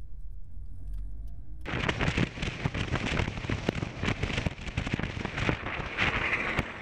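A low, steady hum of a car cabin, then from about two seconds in, heavy rain hitting a car's roof and windscreen: a dense crackle of many drops that continues to the end.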